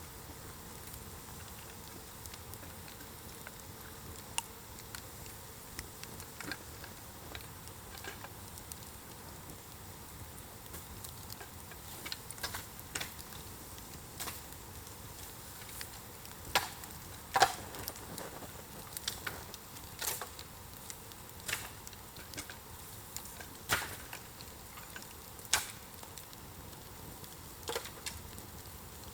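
Wood fire crackling: a steady low hiss with scattered sharp pops and snaps, sparse at first and coming more often from about halfway through as the fire builds on the embers.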